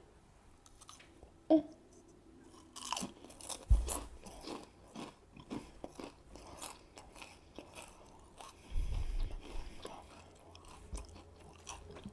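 Close-up crunching and chewing of a potato chip, starting about three seconds in, with a brief sharp sound just before it.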